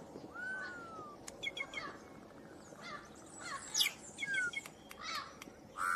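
Live birds calling: a slurred whistle falling in pitch about half a second in, then several clusters of short, sharp chirps.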